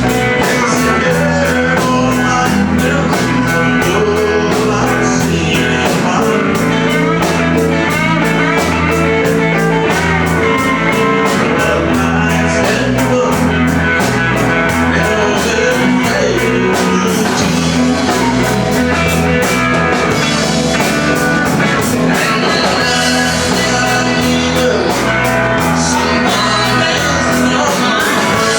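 Live country-rock band playing: electric guitar over bass and a drum kit keeping a steady beat.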